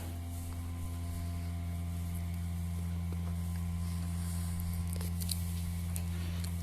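Zetor tractor's diesel engine idling steadily, an even low hum with faint ticks above it.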